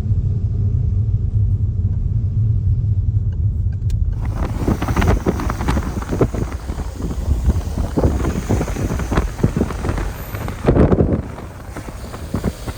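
Car driving over a rough, potholed road, heard from inside the cabin: a steady low rumble, then from about four seconds in a dense, irregular rattling and knocking as the car jolts over the broken surface.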